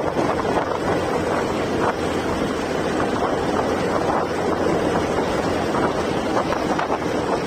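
Steady wind rush over the microphone of a moving motorcycle, with no breaks.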